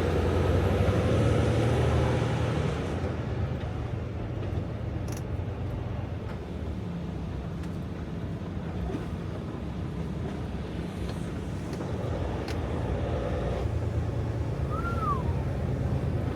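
Semi truck's diesel engine running at low speed, heard from inside the cab, swelling louder at the start and again near the end, with a few faint clicks and a short high chirp near the end.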